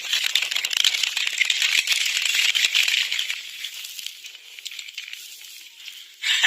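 Stones and debris clattering in a landslide's flow of mud, a dense rattling that dies down after about three and a half seconds. A brief louder noise comes at the very end.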